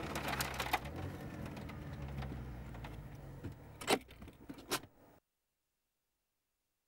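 Opel GT's 2.0-litre turbo Ecotec four-cylinder engine and road noise droning low inside the cabin while driving, with a few sharp clicks and knocks, the loudest about four seconds in. The sound fades and cuts off to silence a little after five seconds in.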